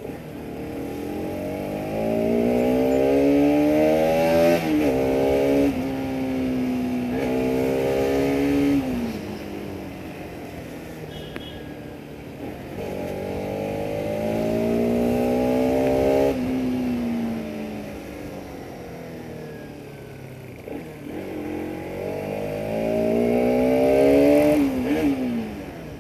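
Bajaj Pulsar RS200's single-cylinder engine and exhaust revving hard under acceleration three times. Each time the pitch climbs, with brief sudden dips, then falls away as the throttle closes.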